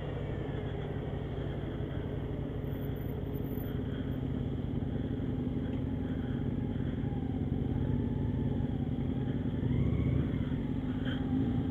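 Motorcycle engine running steadily while riding in traffic, with road and wind noise, the engine note rising a little toward the end.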